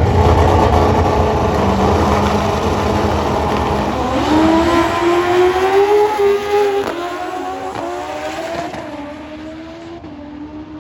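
Drag racing motorcycles launching hard and accelerating down the strip. The engine note climbs, drops back at each gear change several times, and fades as the bikes pull away.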